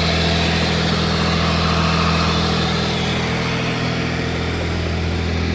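Acura J32A2 V6 engine, swapped into a Miata, idling steadily.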